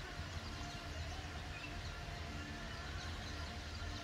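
Outdoor ambience: small birds chirping in short high notes over a low, steady rumble.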